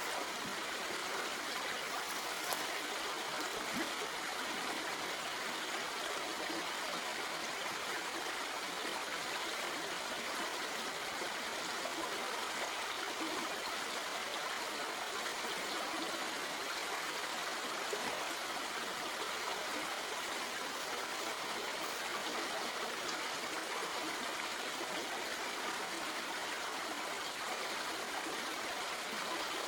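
A stream flowing over rocks, a steady rushing and trickling of water.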